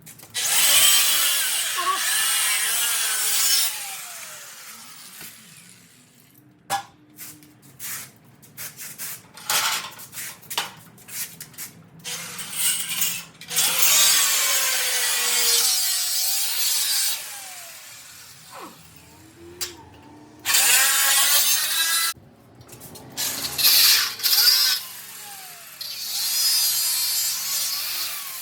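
Angle grinder with a cut-off wheel cutting through the steel ATV frame in several bursts of a few seconds each, its whine dipping and recovering as the wheel bites. Between the cuts there are clicks and knocks of metal being handled.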